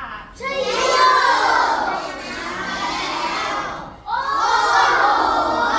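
A class of children reading aloud together in Thai, many voices in unison, in two long phrases with a brief pause about four seconds in.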